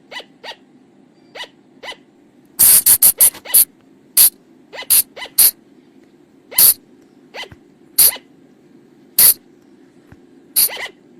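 Flying lemur (colugo) calls: short, sharp, shrill yelps at irregular intervals, with a quick run of about six close together about three seconds in, over a faint steady hum.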